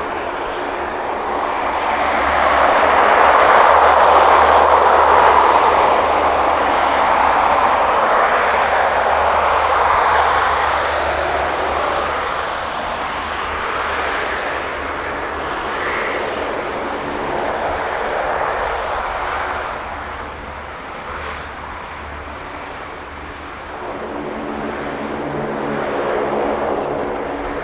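A fixed-wing aircraft's engines rushing past, loudest a few seconds in and then slowly fading, with a smaller swell again near the end.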